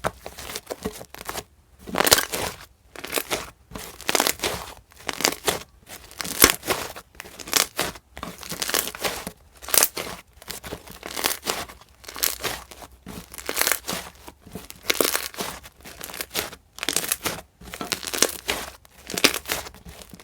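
Thick handmade slime worked by hand, crackling and popping in repeated bursts about once a second.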